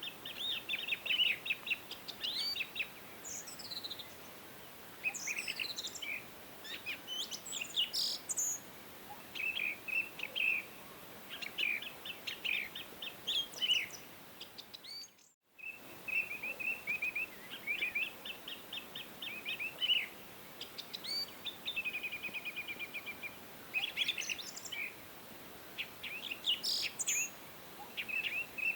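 Several songbirds chirping and singing in short trills and whistled phrases over a faint steady hiss. About halfway through the sound fades out for a moment and comes back.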